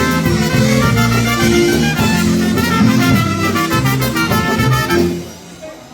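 Live dance band playing an instrumental passage with held notes over a bass line; the tune ends about five seconds in and the hall goes quiet.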